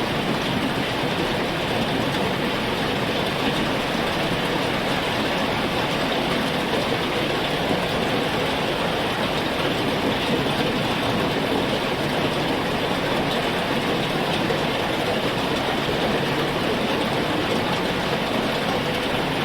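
Heavy rain falling in a steady, dense downpour, even and unbroken throughout.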